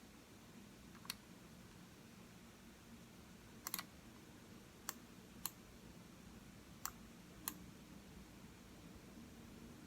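Computer mouse button clicking, about six sharp separate clicks at irregular intervals, one a quick double click near the middle, over a faint low room hum.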